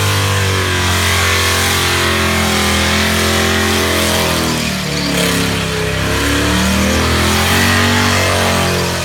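Muscle car engines rumbling, revving up and down a few times in the middle, with music playing over them.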